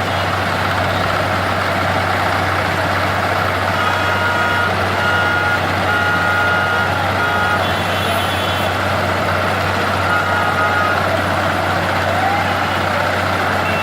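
Diesel engine of heavy road-building machinery running steadily, with a reversing alarm beeping on and off from about four seconds in and again around ten seconds.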